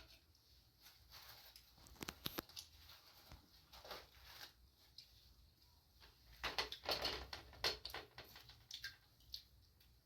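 Scattered light clicks, knocks and rustling of small objects being handled. A busier run of clicks and rustles comes about six to eight seconds in.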